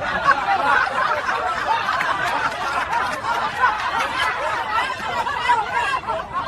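A crowd laughing, many voices overlapping in a steady wash of laughter.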